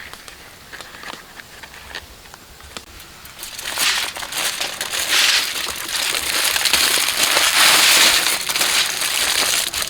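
Dense crunching and crackling, faint scattered clicks at first, turning loud and continuous about three and a half seconds in.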